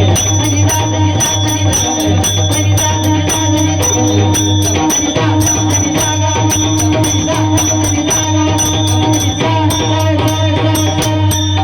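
Devotional bhajan music: hand cymbals or jingles struck in a steady, quick rhythm of several strokes a second over sustained held tones.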